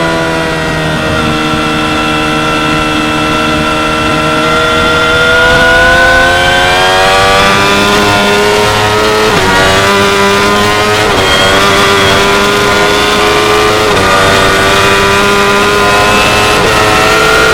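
A 2016 Yamaha R6's 599 cc inline-four sport-bike engine at high revs under hard riding. The pitch eases down at first, then climbs steadily under acceleration, with three brief dips in pitch in the second half as it shifts, and climbs again near the end.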